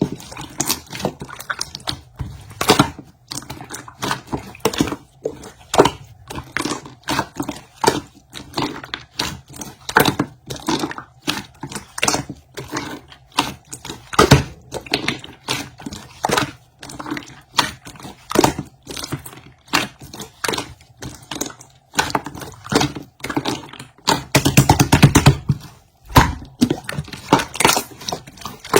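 Slime being squeezed and pressed by hand, giving a stream of irregular sharp clicks and pops. Near the end comes a denser, faster run of clicking.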